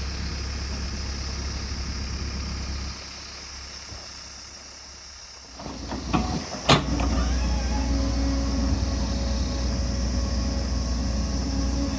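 Excavator's diesel engine running steadily, dropping lower about three seconds in, then picking up again with a few knocks and one sharp metal clank just past the middle before running on louder.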